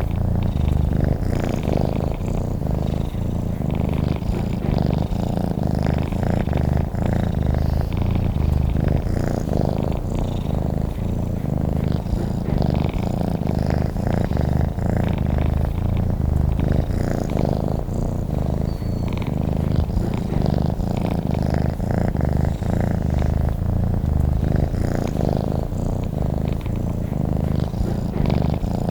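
Domestic cat purring steadily: a continuous low, fluttering rumble that never pauses.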